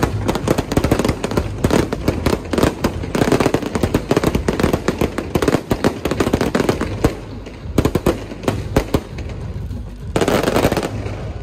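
Firecrackers going off in a dense, continuous run of rapid bangs, thinning a little later on, with a louder stretch shortly before the end.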